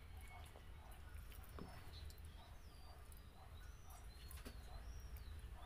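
Quiet mouth-closed chewing and small clicks of fingers picking apart fried round scad (galunggong), with faint short bird chirps in the background over a low steady hum.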